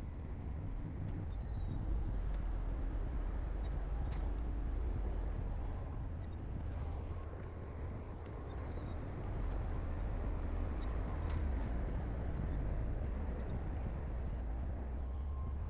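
Heavy diesel engine of earthmoving equipment running steadily under work, a low rumble that swells slightly now and then.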